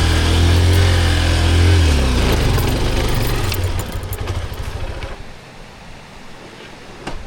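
Honda XR150L's single-cylinder engine running steadily, then dropping in pitch as it slows from about two seconds in and dying away by about five seconds in.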